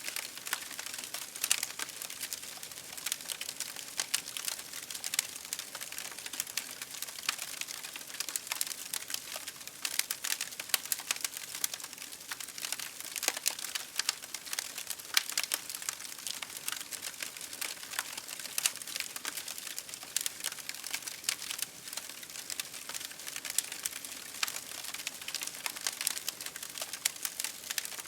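Campfire crackling: a dense, irregular run of small pops and snaps over a steady hiss of burning wood, with a few sharper pops standing out.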